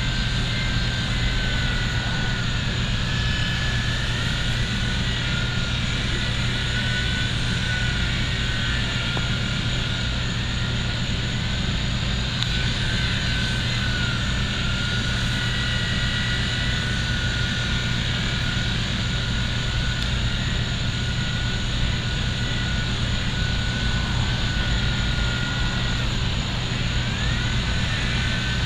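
Battery-powered WLtoys V911 micro RC helicopter's small electric motors whining in flight, the pitch drifting up and down as the throttle changes, over a low steady hum.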